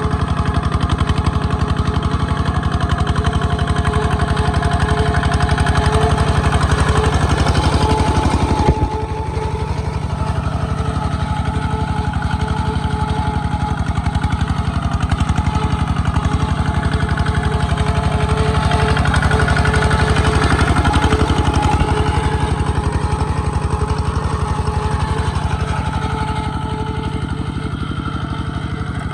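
Small Kubota tractor's engine running steadily with an even low throb. About nine seconds in there is a sharp click, and after it the sound is slightly quieter and duller.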